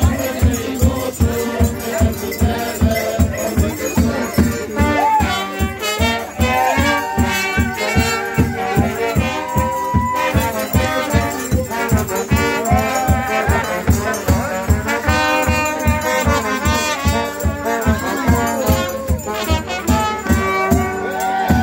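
Instrumental folk music from a brass band, playing a melody over a steady bass drum beat at about two beats a second.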